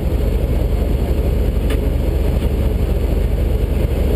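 Fire department brush truck's engine running as the truck drives, a steady low rumble, with one brief click about a second and a half in.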